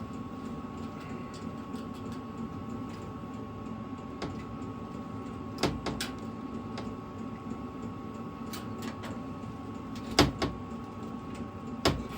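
A steady background hum with a few sharp clicks and knocks of metal parts being handled: a pair about halfway through and a louder knock or two near the end.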